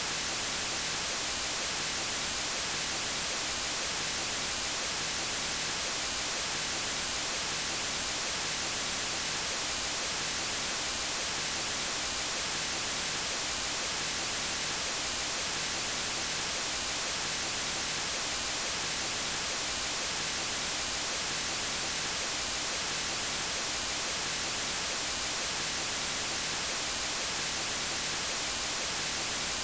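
Steady white noise: an even, unbroken hiss across all pitches, brightest in the treble, with no change in level.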